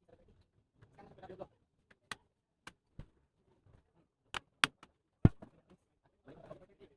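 Laptop parts and small tools being handled on a bench: a scattering of sharp clicks and taps, the loudest a single knock about five seconds in.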